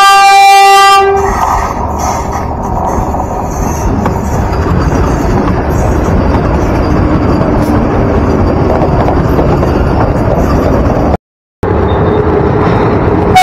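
A train horn sounds and cuts off about a second in, followed by the steady rumble of a train running along the track. The sound drops out briefly near the end, then the rumble resumes.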